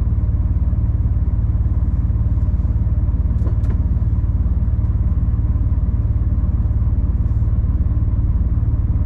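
Diesel engine of a 26-tonne three-axle rigid lorry running steadily on the move, heard from inside the cab as an even low drone. A faint click comes about three and a half seconds in.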